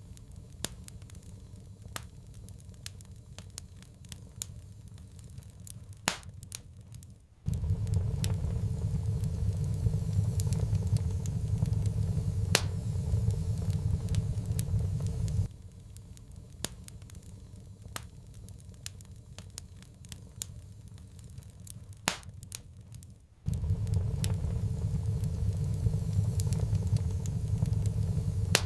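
Wood fire crackling with sharp, scattered pops. A loud low rumble cuts in abruptly about seven seconds in, stops suddenly about halfway through, and cuts back in near the end.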